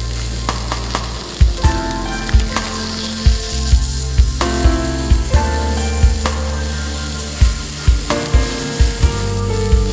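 Pancake batter sizzling in a pan over a campfire, a steady frying hiss, under background music with sustained notes and a beat of low thumps that starts about a second in.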